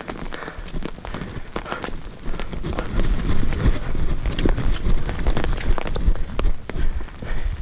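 Rain falling, heard as a dense scatter of irregular taps and crackles over a steady hiss, with a low rumble from wind or handling on the microphone.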